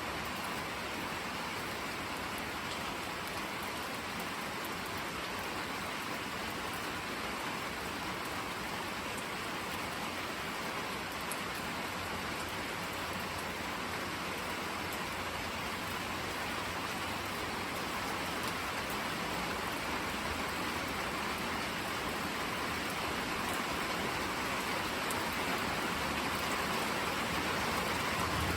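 Steady rain falling and pattering on surfaces, growing gradually louder through the second half.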